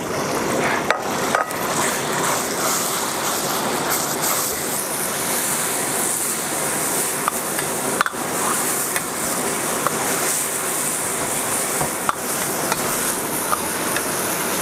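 Shredded pork sizzling in hot oil in a wok, stirred with a metal ladle that knocks and scrapes against the wok a few times.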